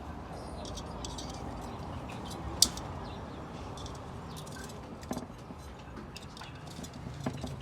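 Metal transmission parts being handled: one sharp metallic click about two and a half seconds in and a couple of fainter clicks later, over a steady low background noise.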